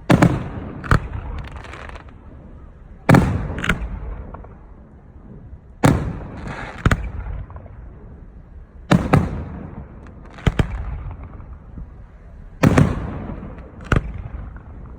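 Aerial firework shells bursting in a display: a deep boom about every three seconds, each followed about a second later by a sharper crack, with rumbling echoes in between.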